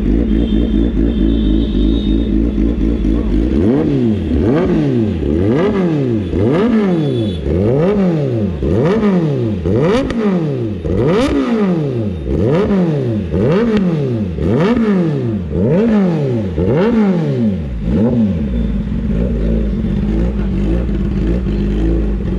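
Kawasaki Ninja ZX-10R's inline-four engine idling, then revved in quick blips about once a second, the revs climbing and dropping each time, before settling back to a steady idle near the end.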